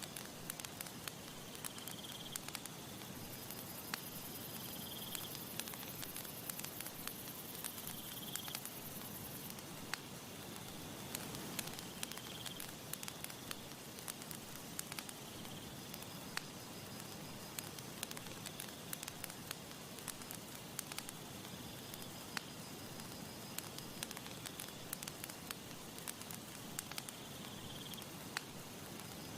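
Campfire crackling: many sharp pops over a low steady hiss. A short, high chirp repeats every couple of seconds, and a very high insect-like buzz runs for about six seconds near the start.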